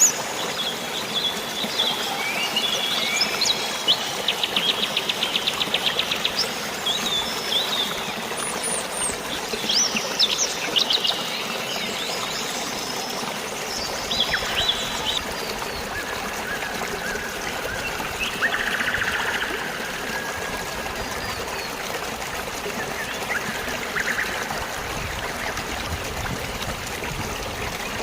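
Birds chirping and trilling over a steady wash of flowing water. The bird calls are busiest in the first half, including a fast trill a few seconds in, and grow sparser later.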